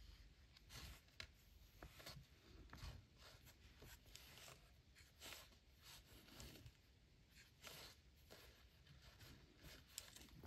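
Faint strokes and dabs of acrylic paint marker tips on paper, short and irregular.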